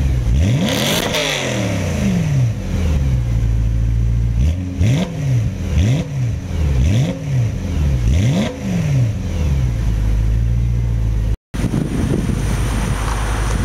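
BMW M3 E92's 4.0-litre V8 exhaust being revved in quick throttle blips, the pitch rising and falling about once a second, then settling to a steady idle. A short break in the sound near the end, after which wind noise comes in over the engine.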